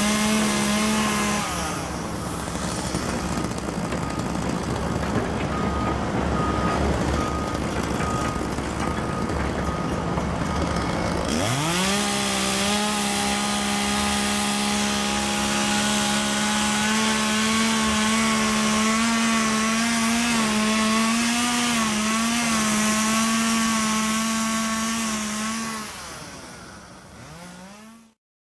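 Two-stroke chainsaw running at high revs. It drops back for several seconds, then revs up again about eleven seconds in and holds steady with a few small dips. It winds down near the end and cuts off.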